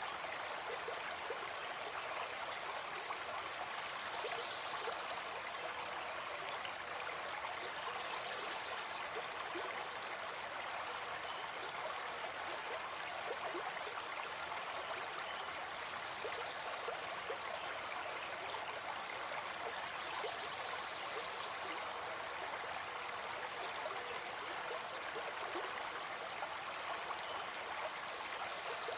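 Gentle forest stream flowing, a steady rush of water.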